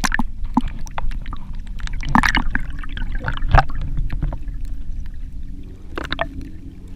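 Kayak paddle strokes splashing and dripping water, a few distinct splashes a second or so apart, over a steady low rumble of wind on the microphone.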